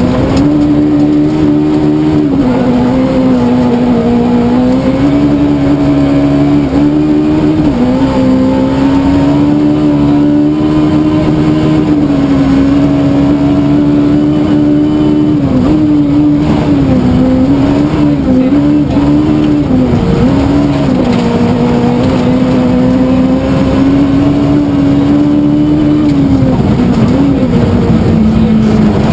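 Swift rally car's engine running hard at high revs, its pitch held nearly level, with brief dips several times as the throttle is lifted or a gear is changed.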